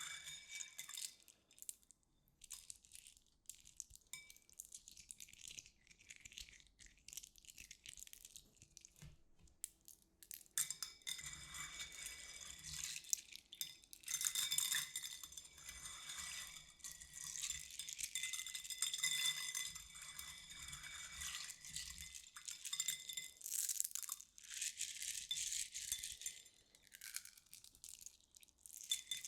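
Small hard objects rattling and clinking together with a bright, chime-like ringing. It is sparse at first, then from about a third of the way in it becomes a dense, continuous jangle.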